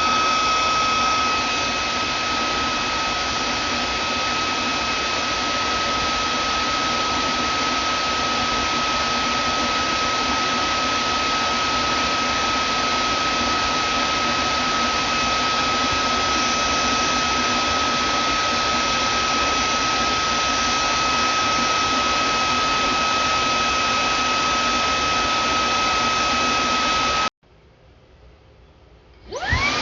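Vacuum cleaner motor running steadily with a high whine over a broad rush of air. Near the end it cuts off suddenly, then starts again, the whine rising in pitch as the motor spins back up.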